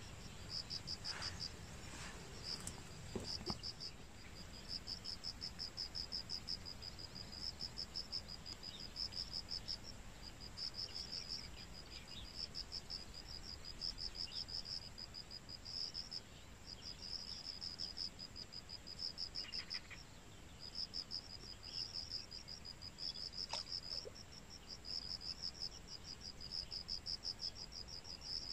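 Insects chirping in high, fast-pulsed trills, each about a second long with short gaps between, repeating steadily; a few faint clicks near the start and once about two-thirds of the way through.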